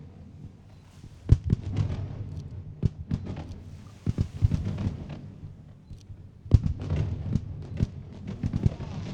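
Aerial fireworks bursting in quick volleys of sharp bangs, with a crackling spell between volleys. The loudest bangs come about a second in and again about six and a half seconds in.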